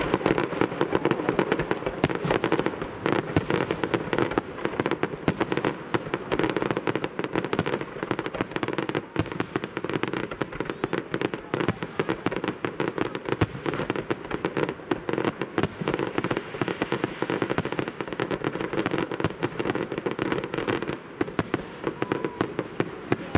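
Fireworks display: a dense, continuous run of crackling pops over a steady low rumble.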